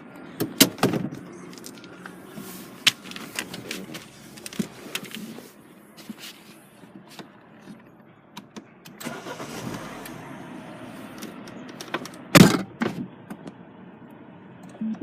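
Clicks and knocks from handling things inside a car's cabin, with one loud thud about twelve seconds in.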